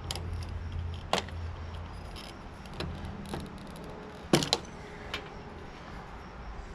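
Scattered sharp clicks and clinks of metal parts and hand tools being handled while a tankless water heater is taken apart, about five over several seconds with the loudest pair about four seconds in, over a low steady hum.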